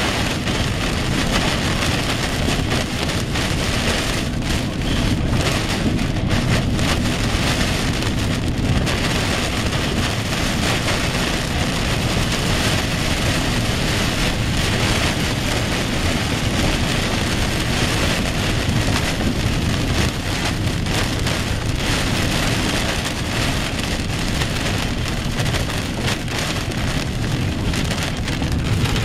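Heavy rain beating on a car's roof and windshield as it drives through a thunderstorm, heard from inside the cabin as a steady, dense rush.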